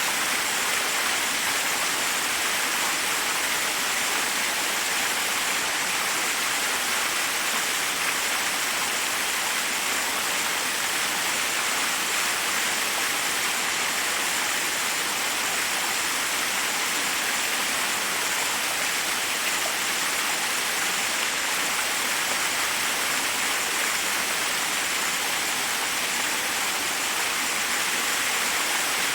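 Waterfall: water pouring and rushing in a steady, even hiss, bright and high with little low rumble.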